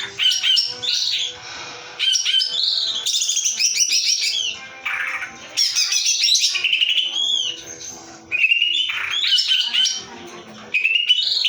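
Cucak ijo (green leafbird) singing: loud bursts of rapid trills, shrill sweeping notes and chattering phrases, each lasting one to two seconds with short pauses between.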